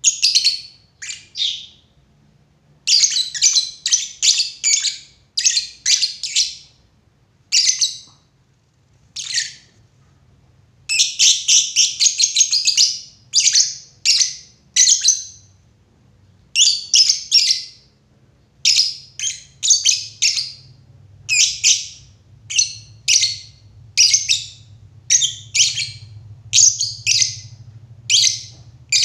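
Lovebirds chirping: shrill, high-pitched chirps in quick clusters, repeated through with short gaps.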